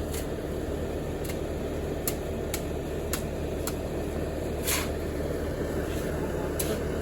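An engine running steadily, with scattered sharp clicks on top, the loudest about two-thirds of the way through.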